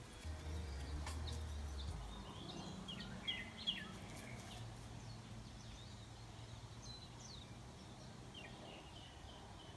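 Birds chirping in short, scattered calls, two of them loudest a little after three seconds in, over a faint low rumble that is heaviest in the first two seconds.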